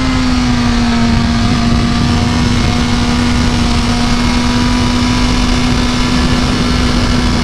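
BMW S1000RR inline-four engine running under steady throttle at nearly constant revs, its note dipping slightly about a second in and then holding, under heavy wind rush on the onboard microphone.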